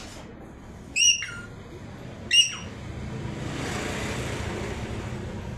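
Pet parrot giving two short, shrill whistled calls, each dropping in pitch at the end, about a second and a half apart. A steady rushing noise follows in the second half.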